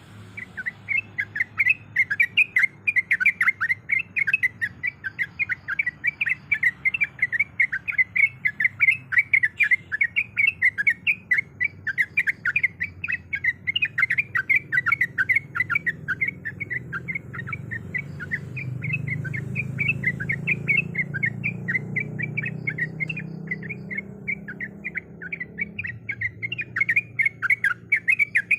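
Sooty-headed bulbul (trucuk) calling in a fast, unbroken series of short chirps, several a second. A low background rumble swells in the middle and fades again.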